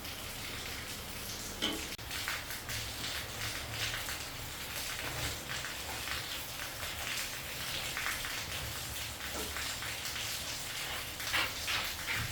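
Steady rain falling, with scattered louder drops and splashes.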